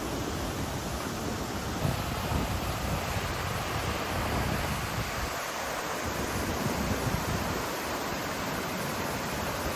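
Steady rush of a mountain river's water over its rapids, with uneven gusts of wind buffeting the microphone.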